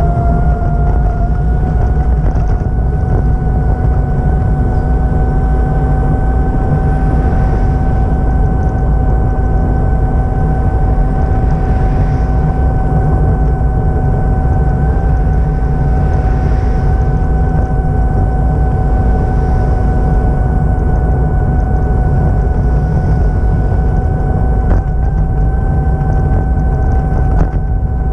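A vehicle running steadily: a heavy low rumble with a held mechanical whine that rises slightly at the start, then stays level.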